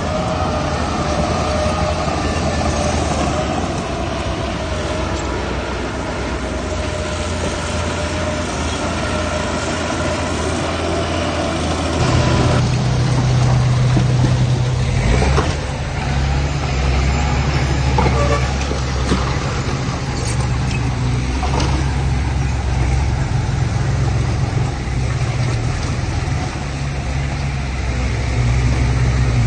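Diesel engines of heavy earthmoving machinery running steadily with a low hum; about twelve seconds in the engine sound changes abruptly to a louder, slightly higher note, and a few short metal clanks follow.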